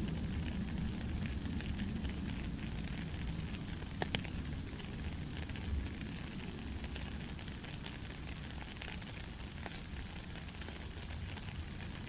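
Steady white-noise track for lulling a baby to sleep: an even rushing hiss over a low rumble, scattered with faint crackles, and one sharper click about four seconds in.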